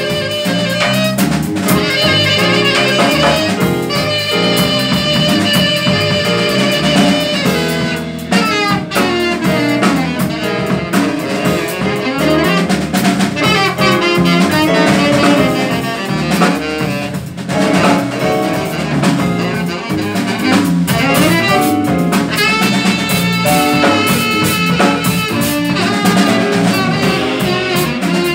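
Live jazz quartet playing: alto or tenor saxophone lines over piano, double bass and drum kit with cymbals.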